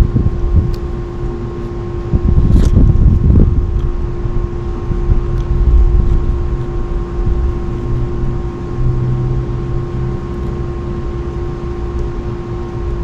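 Gusty typhoon wind buffeting the microphone in low, rumbling swells, strongest a couple of seconds in. A steady hum runs underneath.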